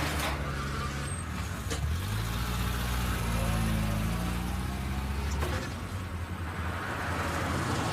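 A motor vehicle engine running, its pitch rising a couple of seconds in and settling back down, with a few sharp clicks along the way.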